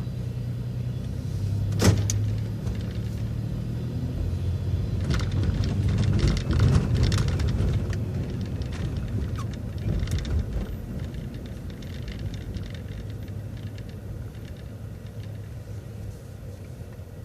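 City transit bus engine running with a steady low hum as the bus drives off, heard from inside the bus, with a sharp click about two seconds in and scattered rattles and clicks. The engine is quieter in the second half.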